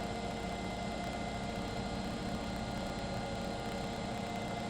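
Steady hiss with a faint hum and no distinct events, like background noise under footage.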